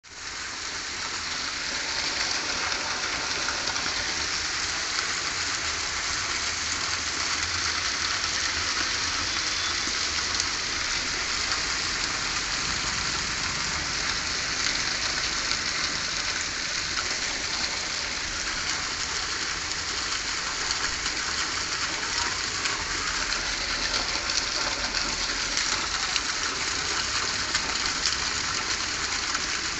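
Steady hiss of falling water, fading in over the first two seconds and then holding even.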